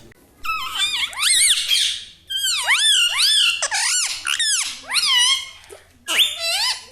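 Pet ring-necked parakeet giving a rapid series of loud, shrill calls, each sweeping up and down in pitch, with short breaks between runs.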